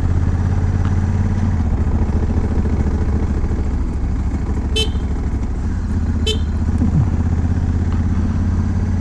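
Honda Africa Twin's parallel-twin engine running steadily under way, with two short toots of the motorcycle's horn about a second and a half apart, near the middle, as a warning on a narrow road.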